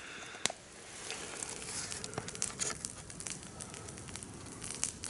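Campfire crackling: scattered sharp pops over a soft hiss of burning wood, one louder pop about half a second in.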